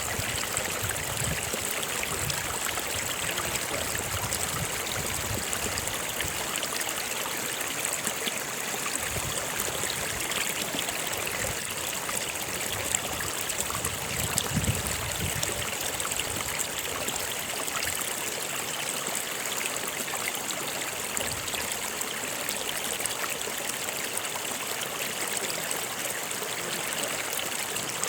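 A stream of running water, a steady rush with low gurgles now and then, the strongest about halfway through.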